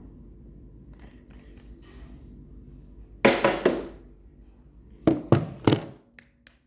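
Sharp knocks in two quick groups of three, about two seconds apart, over a faint steady hum, with a few lighter clicks before them.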